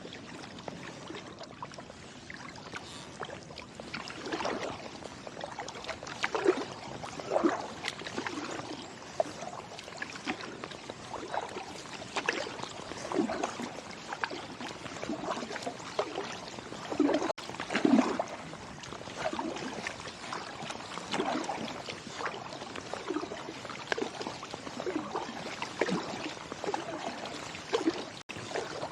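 Kayak paddle strokes in calm river water: the blades dip in with a splash about once a second, with water trickling and dripping off them between strokes.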